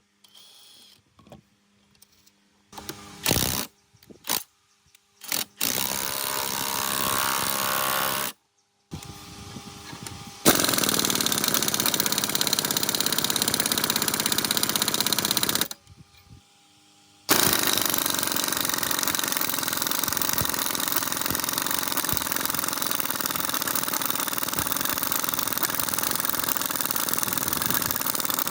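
A power tool running in long, loud, steady stretches after a few short knocks and clicks; the sound cuts off abruptly and restarts twice.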